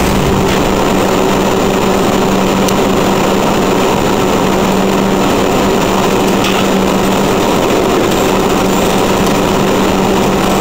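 Steady mechanical drone of a running motor, with an unchanging hum and no change in speed.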